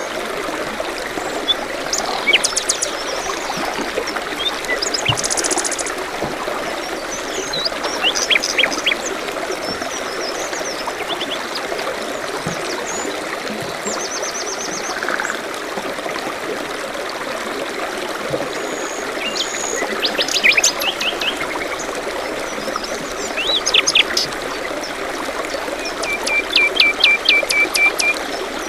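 A stream trickling steadily over stones, with songbirds calling and trilling now and then over it, including a quick run of repeated notes near the end.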